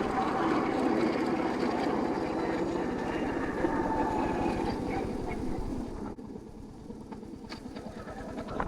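Royal Enfield Hunter 350's single-cylinder engine running with an even, rapid beat, which falls away sharply about six seconds in, leaving a quieter sound with a few faint clicks.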